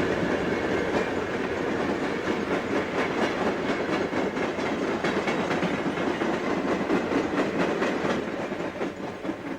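Passenger train passing at speed, its wheels clicking rapidly over the rail joints, the sound fading away near the end.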